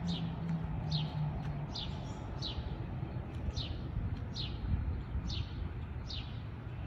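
A songbird repeating a short, high, down-slurred note about once every 0.8 seconds, over a steady low rumble of city background noise.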